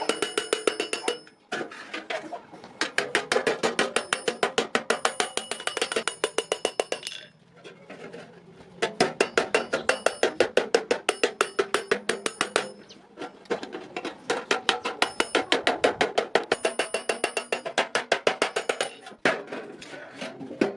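Rapid hammering on iron over an anvil, about seven blows a second, each strike ringing high and metallic, in four spells with short pauses between them.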